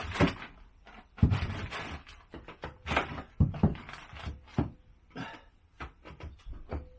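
An irregular series of short knocks and clunks, about a dozen over several seconds, some much louder than others.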